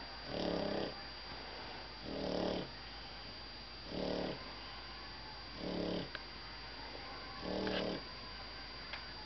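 A sleeping pug snoring: five snores in a steady rhythm, one about every two seconds, each lasting about half a second.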